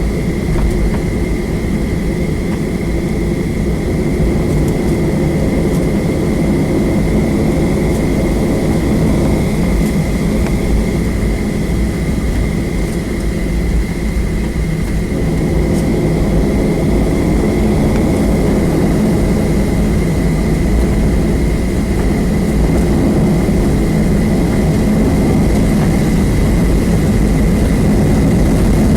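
Jet airliner's engines at low power, heard inside the cabin while taxiing: a steady low rumble with a thin constant whine above it, slowly growing a little louder.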